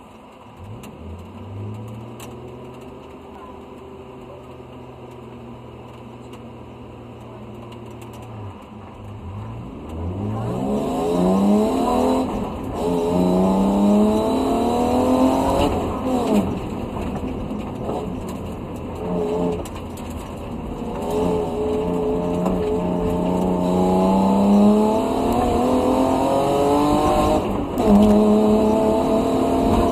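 Rally car engine running steadily while stationary, then pulling away and accelerating hard, its revs climbing and falling back at each of several gear changes, heard from inside the cabin. Road and tyre noise grows as the car picks up speed.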